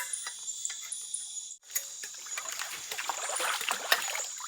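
Night insects, crickets among them, chirring steadily and high-pitched. After a brief dropout, a dense crackly rush of noise swells up about two seconds in and peaks near the end, with one sharp click.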